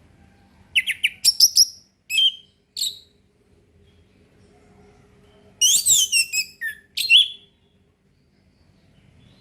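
Orange-headed thrush singing in the clear 'ngeplong' style. There are two short phrases of quick, varied whistled notes, the first about a second in and the second a few seconds later, over a faint low hum.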